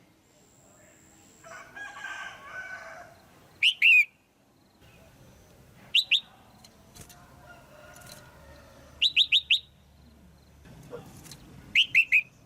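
Red-whiskered bulbul calling, the female's loud call used to stir up males: short sharp down-slurred notes in quick clusters of two to four, repeated every two or three seconds. A softer jumbled chatter comes in about two seconds in.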